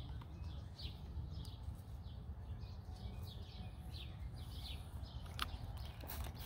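Small birds chirping repeatedly in short, irregular calls over a steady low rumble, with one sharp click about five and a half seconds in.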